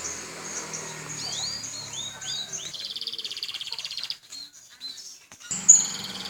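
Domestic canary singing: a series of short high notes and rising swoops, then a fast trill lasting over a second. After a brief lull about four seconds in, a loud high note near the end starts another trill.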